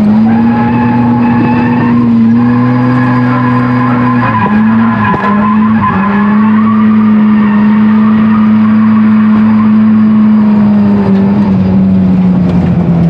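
Mazda FC RX-7's naturally aspirated 13B rotary engine held at high revs through a drift, with tyres skidding. The revs dip and waver about four to six seconds in, then hold steady again.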